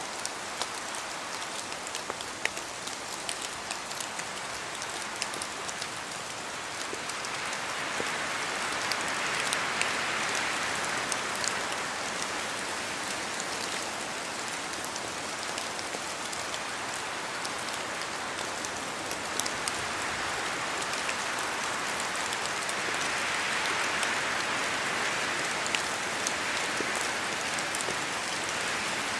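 Steady rain falling through forest trees, a constant hiss with many sharp single drops ticking onto leaves. The hiss swells slowly twice, about a third of the way in and again near the end.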